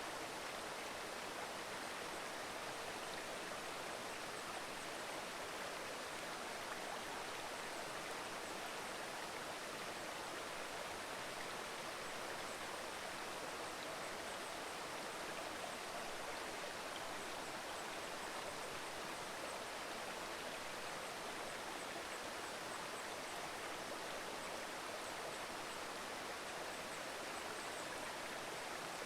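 Mountain river babbling steadily over stones, with faint high ticks in the background from about halfway on.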